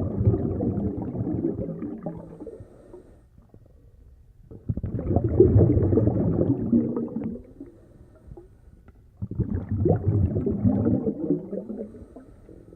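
Scuba regulator exhaust bubbles: a diver breathing out three times, about every four seconds, each breath a gurgling rush of bubbles that lasts two to three seconds, with quiet gaps between them while the diver breathes in.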